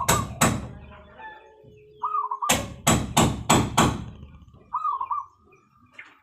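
Zebra dove (perkutut) singing: a short wavering trill followed by a run of evenly spaced, sharp, percussive coos about three a second, heard twice.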